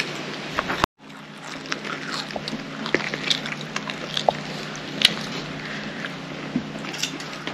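Ferrero Rocher chocolates being crunched and chewed, with the crinkle of their gold foil wrappers being handled: scattered small crackles and clicks over a steady low hum. The sound drops out completely for an instant just before a second in.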